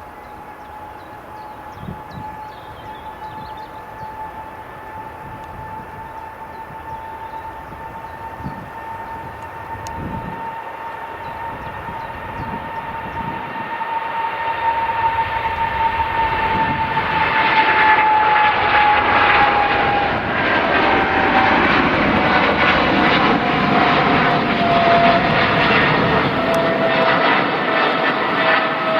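An airliner's engines growing steadily louder as it approaches, with a steady whine that drops in pitch as the aircraft passes about two-thirds of the way in, then a loud, full engine noise.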